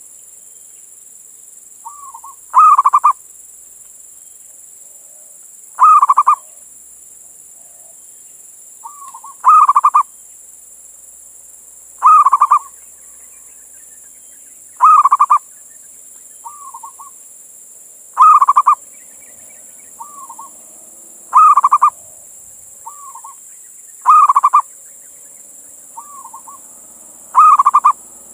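Male zebra dove (perkutut) singing its cooing song, a loud repeated phrase about every three seconds with a softer short note just before most phrases. It is the male's calling song, aimed at a female.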